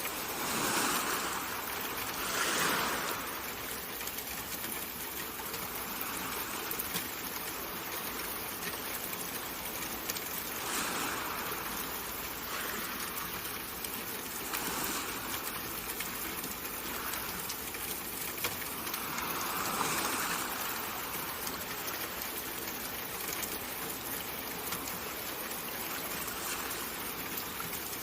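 Steady rushing water ambience, with a few soft swells that rise and fall, as in a sleep-sound water track.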